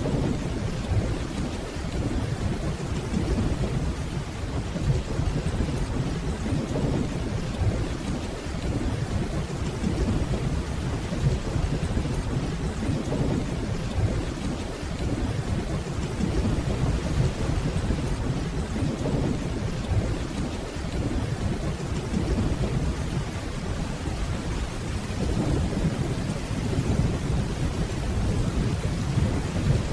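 Steady rainfall with a continuous low rumble of distant rolling thunder that swells and eases gently.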